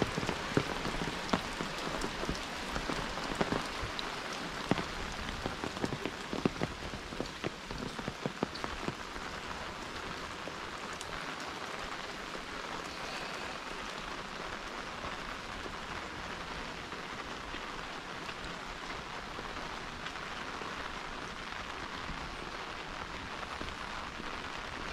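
Pouring rain falling in a steady hiss on roofs and wet ground, with many sharp close raindrop strikes in roughly the first nine seconds.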